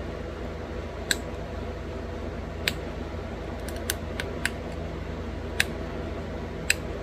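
Pressure flaking of a small stone flake into a bird point: about eight sharp, high clicks at irregular intervals as tiny flakes snap off under the flaker. A steady low hum runs underneath.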